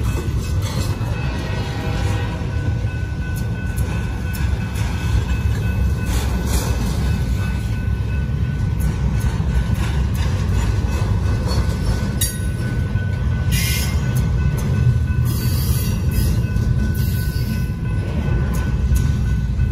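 Double-stack intermodal freight train's well cars rolling past on the rails with a steady low rumble and clatter. A few brief high screeches come from the wheels about twelve to seventeen seconds in.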